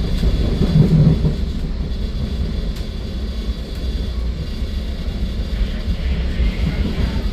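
Metra commuter train rolling along the track, heard as a steady low rumble.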